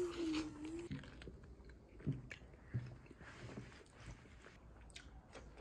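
Close-up eating sounds of roast lamb pulled apart and eaten by hand: soft wet chewing, lip smacks and mouth clicks. A held hummed 'mmm' of the voice ends about a second in.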